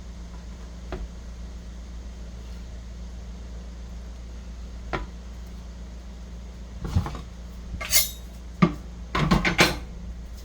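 Dishes and cutlery clinking and knocking as tableware is handled: a couple of single clicks, then a quick run of clinks near the end, over a steady low hum.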